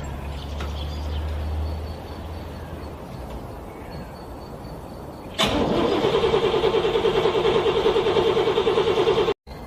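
Cold car engine cranking on the starter, a fast rhythmic churn of about five beats a second. It comes in suddenly about halfway through and cuts off abruptly near the end without the engine catching. Before it there is a low rumble that fades after about two seconds.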